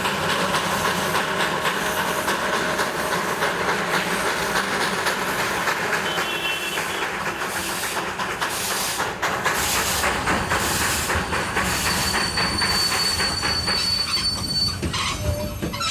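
Narrow-gauge Darjeeling Himalayan Railway train running: a steady rattle and clatter of wheels and carriages. A thin, high wheel squeal sounds for a few seconds near the end.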